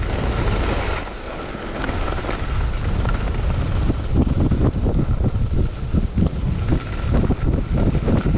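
Wind buffeting a GoPro's microphone, an uneven low rumble with rushing noise.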